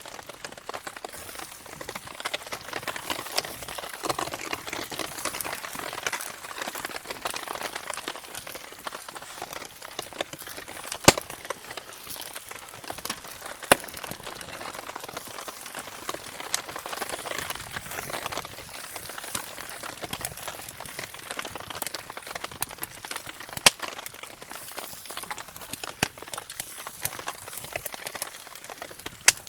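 Wood campfire crackling steadily, with a few sharp single pops from the burning wood.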